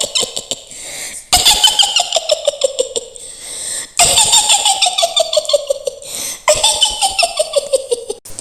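Mak Lampir's witch cackle: a high-pitched, rapid "hihihi" laugh in a woman's voice. It comes in three bouts of about two and a half seconds each, and every bout slides down in pitch.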